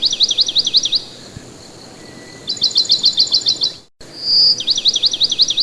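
A bird's song: a short held whistle leading into a quick run of chirps, about ten a second, then after a pause a second run of chirps. The same short recording then starts over about four seconds in.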